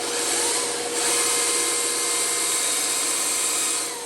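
Bandsaw cutting wood: the motor hum runs steady under a hiss from the blade in the wood. The cut gets louder about a second in and eases briefly near the end.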